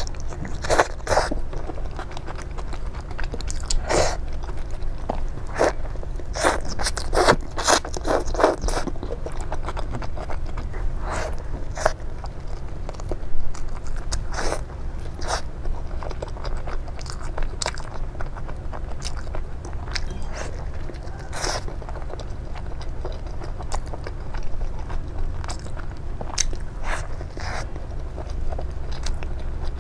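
Close eating sounds of a chicken burger: bites and chewing with many short, sharp crunches, thickest in the first ten seconds and sparser afterwards.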